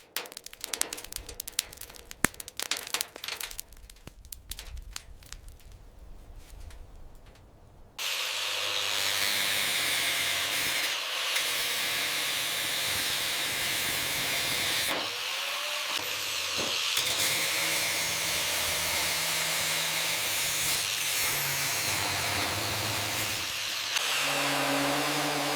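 Irregular scraping and clicking from hand work on metal. From about eight seconds in, a power tool runs steadily with a high whine, typical of grinding or polishing the rusty car body.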